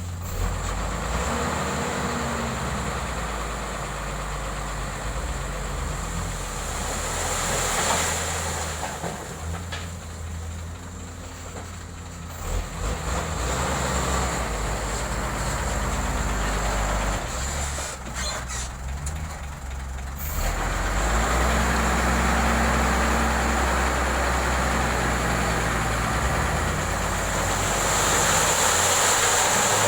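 Diesel engine of heavy road equipment running under load, its speed rising and falling in steps, with a steady high whine above it. It grows louder about two-thirds of the way through.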